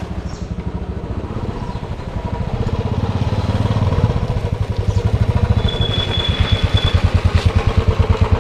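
Royal Enfield Bullet motorcycle's single-cylinder engine running with a fast, even thump, growing louder as it is ridden. A brief high steady tone is heard about midway.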